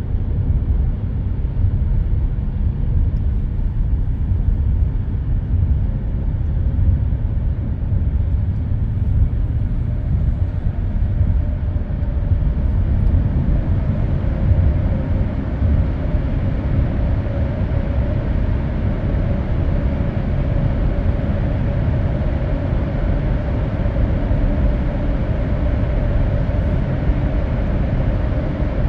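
Steady road and tyre noise with a low engine drone, heard from inside a car's cabin at expressway speed. A faint hum rises slightly in pitch about halfway through.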